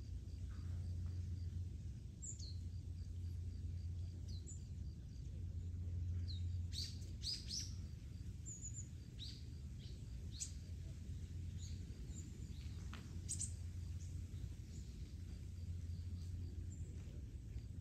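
Small birds chirping here and there in short, high calls, a cluster of them about seven seconds in and again near thirteen seconds, over a steady low rumble.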